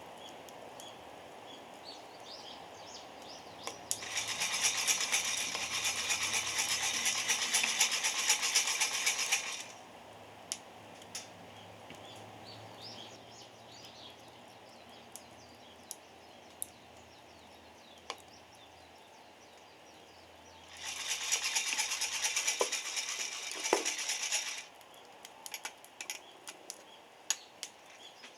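Coffee beans rattling in a roaster shaken over a wood fire, in two spells of about five and four seconds. Between and after them come scattered sharp pops and crackles.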